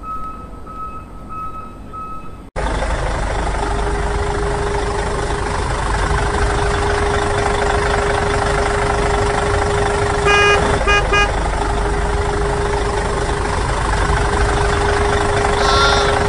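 Electronic beeping in short even pulses, cut off abruptly about two and a half seconds in by a toy vehicle's electronic engine-running sound: a dense steady rumble with a steady hum. A quick burst of horn toots comes about ten seconds in, and a warbling tone near the end.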